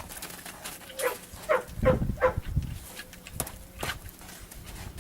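A dog barking four times in quick succession, each bark short and falling in pitch, followed a little later by two sharp knocks.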